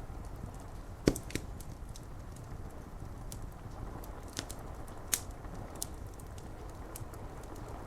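Wood fire crackling, with scattered sharp pops (the loudest about a second in), over a steady patter of rain on window glass.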